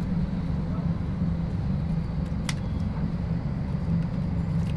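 A steady low mechanical rumble, like a running motor or fan, with two sharp clicks, one midway and one at the end.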